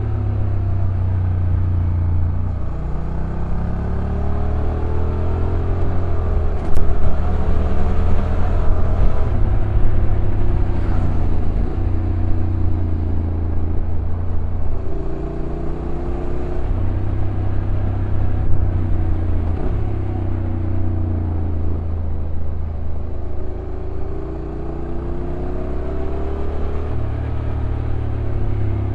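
Honda NC750X motorcycle's 745 cc parallel-twin engine running downhill, its revs rising and falling in steps as the dual-clutch transmission changes gear, over a low rumble. A sharp click sounds about seven seconds in.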